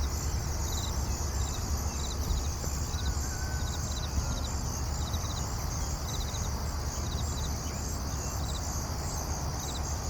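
Steady rain hiss with a low rumble underneath, and short high chirps repeating about every half second over it.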